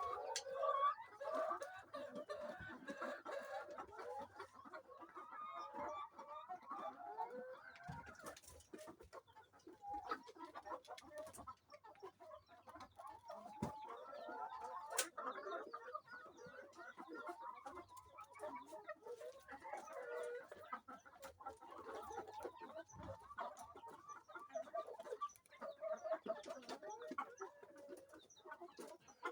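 A flock of layer hens clucking and murmuring continuously, with a few sharp clicks scattered through it.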